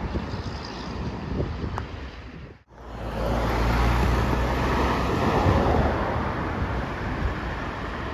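Road vehicles passing, most likely trucks, with wind on the microphone. The sound cuts out suddenly a little over two and a half seconds in, then a heavy engine's low steady drone comes in with passing road noise that swells and eases off.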